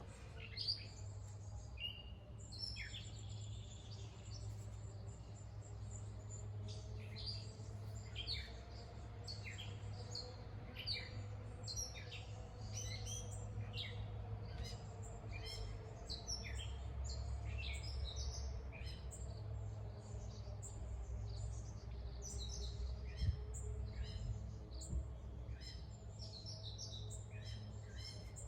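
Wild songbirds chirping and calling in many short, quick notes throughout, over a low steady rumble of distant background noise.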